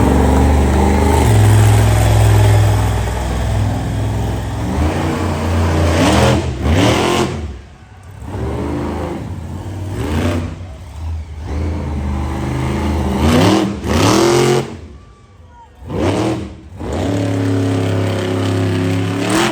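Monster truck engine running hard under steady throttle for about five seconds, then revving in a string of short rising bursts, each followed by a sudden drop off the throttle.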